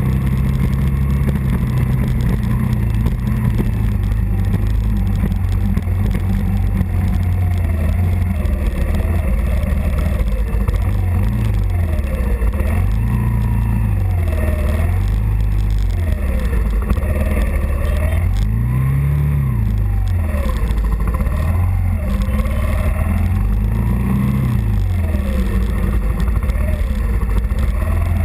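Early-1980s Suzuki 125 motorcycle engine running while ridden. The revs hold steady at first, then rise and fall again and again in the second half as the bike slows and manoeuvres.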